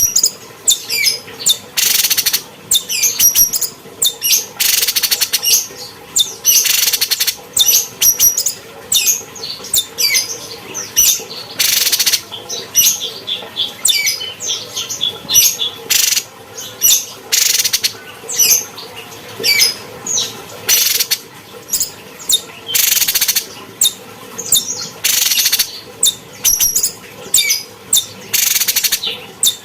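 Cucak cungkok songbird singing continuously: rapid high chirping phrases and runs of notes, broken every second or two by short harsh rasping bursts.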